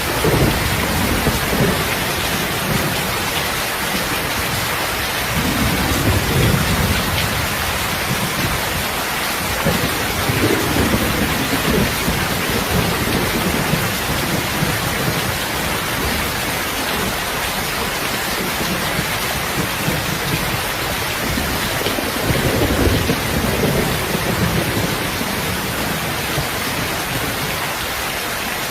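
Steady heavy rain falling, with low rumbles of thunder swelling up several times, near the start, around six and ten seconds in, and again near twenty-three seconds.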